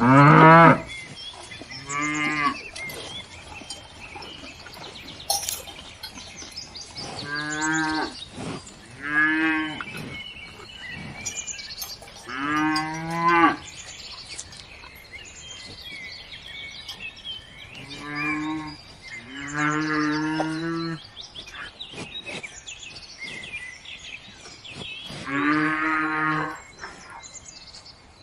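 Cows mooing: about eight separate low moos, each about a second long, a few seconds apart.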